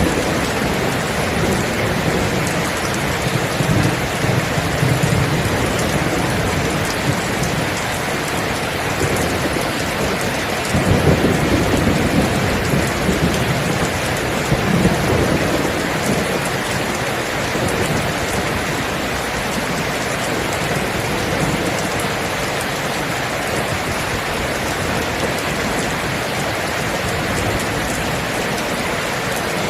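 Steady rain falling, with rolling thunder rumbling low beneath it near the start and again about eleven seconds in.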